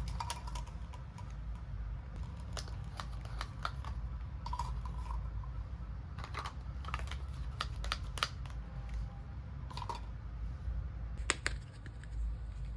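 Light, irregular clicks and taps of small plastic toy kitchen pieces being handled and unpacked, a few with a short ringing ping.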